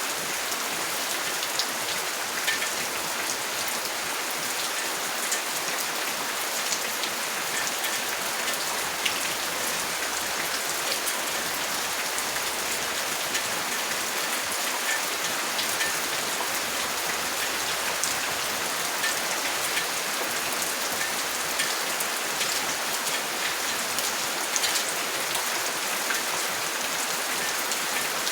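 Steady rain falling, with many small sharp drop ticks.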